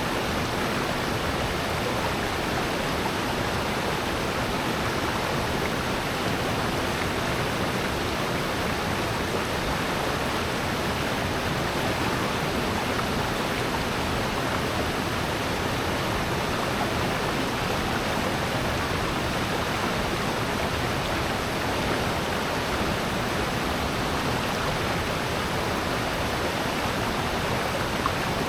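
Mountain stream and waterfall water rushing steadily over rocks in a valley gorge, an even, unbroken rush.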